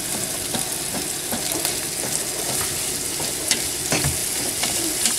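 Ground spice paste sizzling as it fries in an aluminium pot, with a metal spoon stirring it and clicking against the pot now and then.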